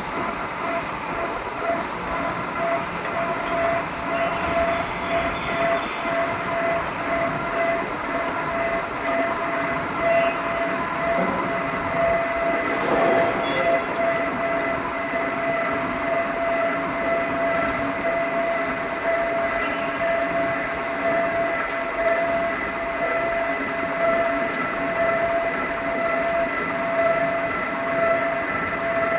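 HMT drilling machine running steadily, a constant whine over a dense rushing, grinding noise as it works steel pipe.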